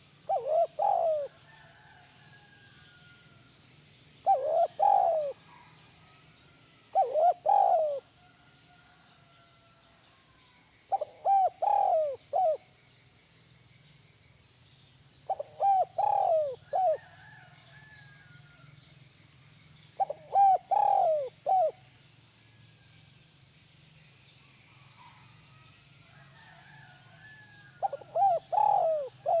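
Spotted dove (tekukur) cooing its 'kuk 1' song: a short phrase of several coos, given seven times about every three to four seconds. Faint chirps of other birds sound between the phrases.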